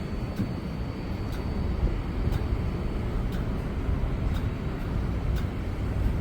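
Steady low rumble of a New York subway 7 train on the elevated IRT Flushing Line, with a faint click about once a second.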